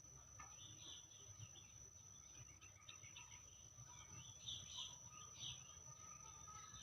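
Faint birds chirping in short, scattered calls, a little louder about two-thirds of the way in, over a steady thin high tone and a low background rumble.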